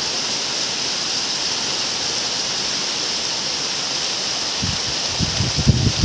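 Steady rain falling, an even constant hiss, with a few low bumps near the end.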